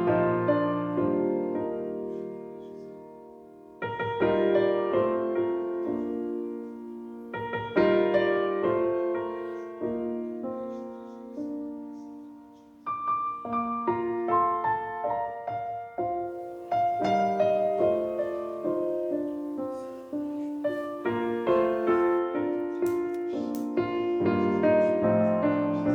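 Soft background piano music, slow phrases of sustained notes that fade and start again every few seconds.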